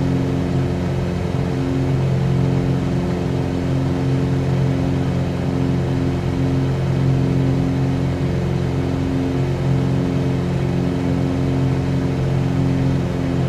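Cabin drone of a Cessna 182Q in cruise flight. Its six-cylinder piston engine and propeller run at a steady, unchanging power with a low, even hum.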